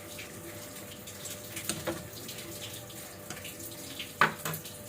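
Bird's eye chilli pickle mixture with lemon juice simmering in a pan, just come to a boil: a steady bubbling hiss with small crackles and pops. A sharp knock about four seconds in.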